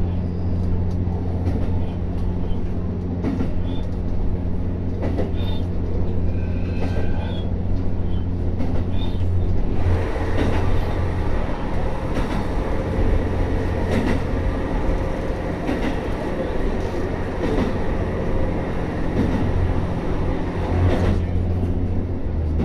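Diesel railcar running along the track, heard from inside the car: a steady low engine hum with wheel-on-rail noise. From about ten seconds in, the sound grows louder and fuller, with a higher drone and light rail ticks, then settles back to the low hum about twenty-one seconds in.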